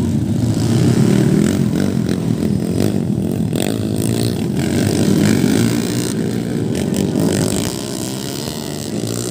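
Underbone racing motorcycle engines running loud and steady, with a few brief sharp knocks mixed in.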